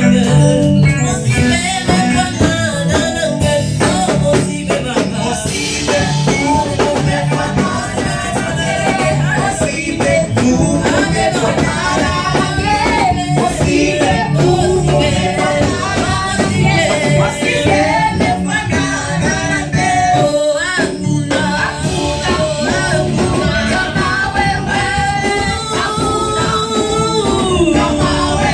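Live gospel music: voices singing over a band with guitar and drums, with a steady beat.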